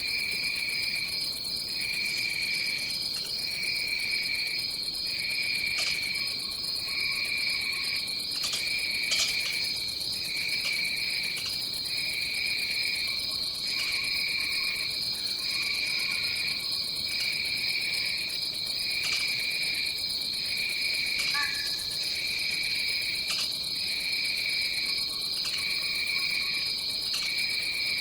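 Tropical forest insect chorus: a steady high-pitched buzz with a lower trill that pulses on and off about once a second, and now and then a brief faint call.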